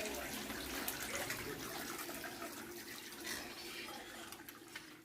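Water running and splashing, with a steady low hum underneath.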